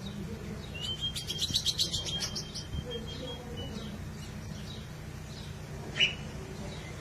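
A songbird sings a burst of rapid high notes over a held tone for about two seconds, then gives a single sharp chirp near the end. Faint repeated chirps and a low steady hum sit underneath.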